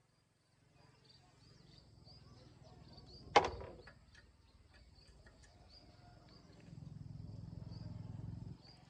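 A single sharp knock about a third of the way in, ringing briefly, then a low steady hum for about two seconds near the end.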